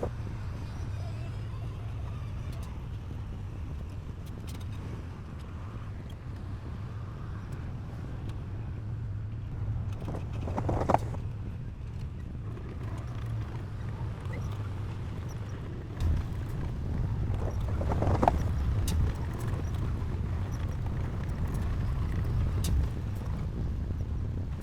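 Heavy diesel earthmoving machine running steadily with a low engine rumble. Short higher scraping or squealing sounds come about eleven and eighteen seconds in, with a clunk just before the second.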